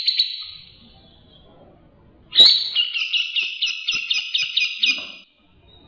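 A songbird singing fast trills of repeated high chirps. One trill fades out about half a second in. After a pause a sharp note opens another rapid run of about six chirps a second, which stops abruptly near the end.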